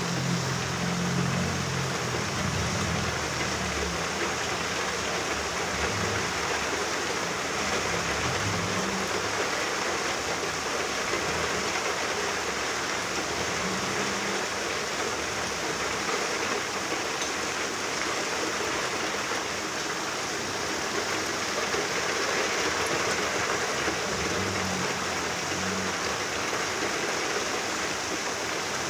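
Steady rain falling, an even hiss, with a faint low rumble near the start and again near the end.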